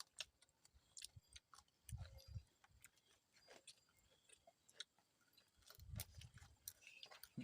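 Faint chewing of crunchy deep-fried insects: scattered crisp crackles with soft low thumps.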